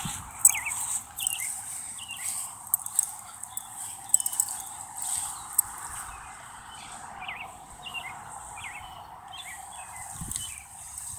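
Small birds chirping, many short chirps scattered throughout, over steady background noise, with a few thumps near the start and end.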